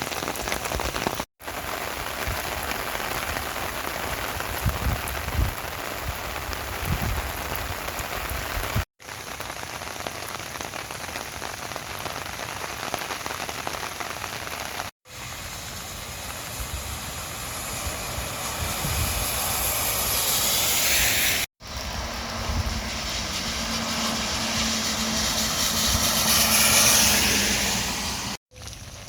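Steady rain falling, heard as several short clips separated by brief drop-outs. In the last two clips the hiss swells louder.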